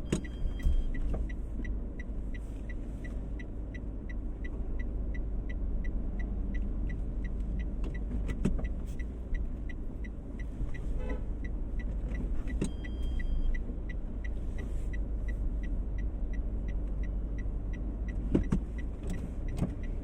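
Car's engine idling with a steady low rumble inside the cabin, while the indicator relay clicks evenly about twice a second. A few soft knocks come now and then.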